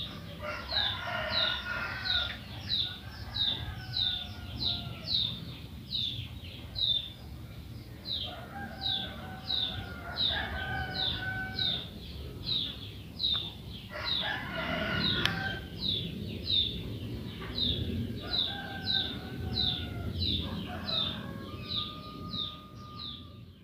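Bird calls: a steady run of short, high, falling chirps about two a second, with longer, lower calls coming in about five times. The sound fades out near the end.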